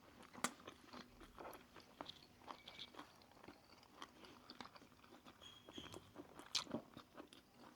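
Faint chewing and biting, with scattered small crunches and clicks of food being eaten.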